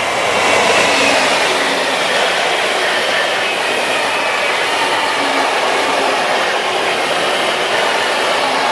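An RRX Siemens Desiro HC double-deck electric multiple unit passing close by at speed: a steady rush of wheels on rail and air, with a faint high whine over it. The sound swells about half a second in as the train draws level.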